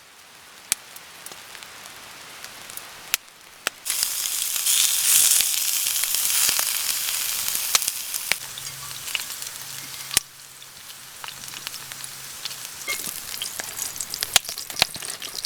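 A pot of mixed rice sizzling and hissing as it cooks over the heat, with scattered sharp crackles. The hiss swells about four seconds in and eases after about eight seconds.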